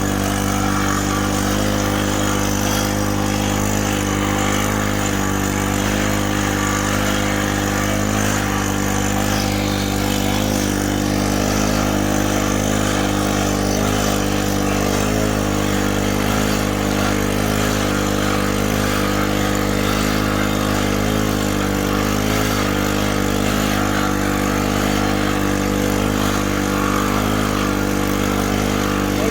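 An engine running steadily at a constant speed, its pitch wavering slightly.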